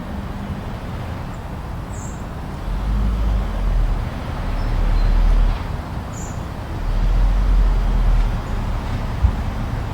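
Blizzard wind blowing as a steady rushing noise, with deep gusts swelling about three seconds in and again about seven seconds in. A couple of faint, short high chirps sound through it.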